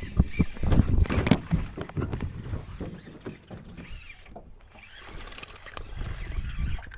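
A quick run of knocks and bumps, loudest in the first two seconds, settling into a quieter steady rushing noise.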